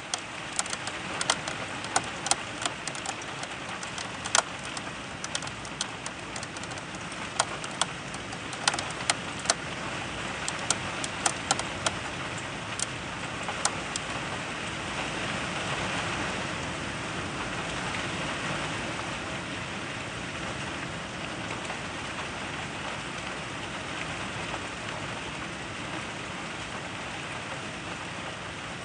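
Rain falling steadily in a thunderstorm, with many sharp ticks of drops striking close by during roughly the first half. The rain swells a little past the middle.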